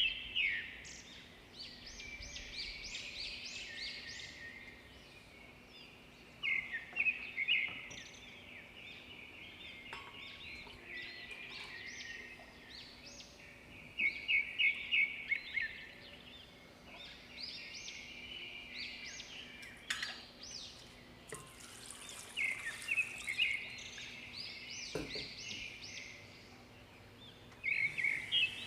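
A bird singing short, bright trilling phrases that come back about every seven seconds, with a brief hiss about two-thirds of the way through.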